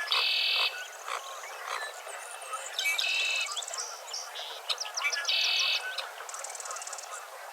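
Sunrise chorus of several birds calling and singing over one another. One bird repeats a short buzzy trill about every two and a half seconds, with frogs croaking beneath.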